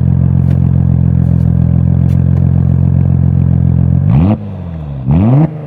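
Audi S4 B5's 2.7-litre V6 biturbo through an LFX V1 90 mm valved stainless exhaust, running at a steady note, then revved twice in quick blips about four and five seconds in, the pitch rising sharply and falling back each time.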